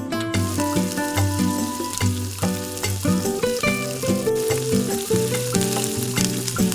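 Food frying in a miniature pan, a steady sizzle that starts just after the beginning, over background music.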